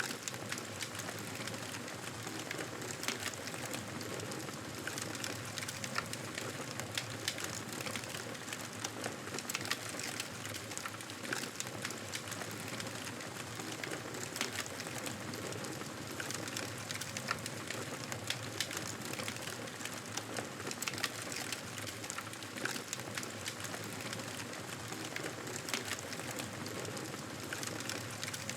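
Wood fire crackling: a steady hiss scattered with many small, sharp pops.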